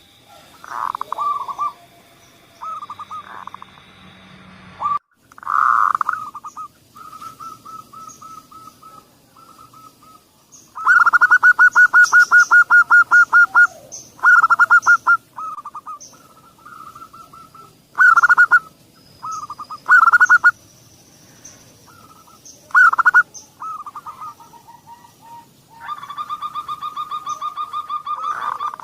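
Zebra doves (perkutut) cooing: repeated bursts of quick staccato trilled coos, with a long unbroken trill about eleven seconds in and another near the end. A faint steady high whine runs behind them early on and again about twenty seconds in.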